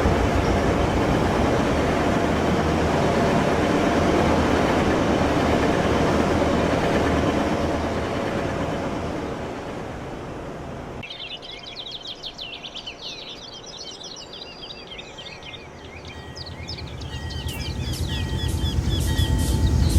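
A passing train's rumble, steady and then fading away over several seconds. Birds then chirp, and near the end a low rumble builds again.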